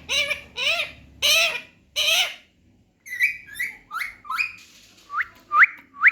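Baby parrot calling: four harsh squawks in the first couple of seconds, then after a short pause a quick run of short high chirps that turns into a series of sharp rising whistles, about two a second, near the end.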